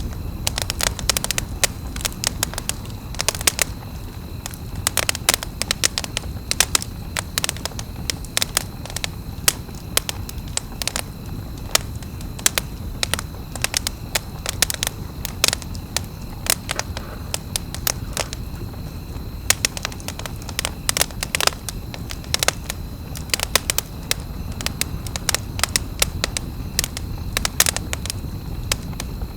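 Wood campfire crackling and popping: many irregular sharp snaps over a steady low rumble of the burning fire.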